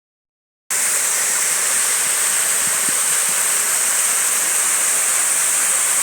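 Waterfall rushing: a steady, hissy wash of falling water that starts abruptly under a second in.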